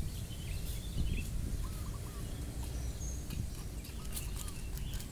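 Birds chirping faintly, a few short calls over a steady low rumble, with light crackling of dry leaves near the end.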